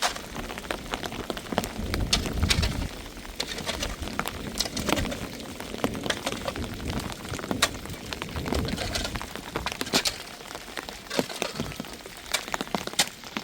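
Rain falling, with many sharp separate drops striking close by. A low rumble runs under it for the first few seconds.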